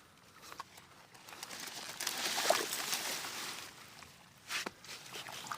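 Water and water hyacinth being stirred: a rustling, sloshing noise that swells for about two seconds, then a short splash near the end.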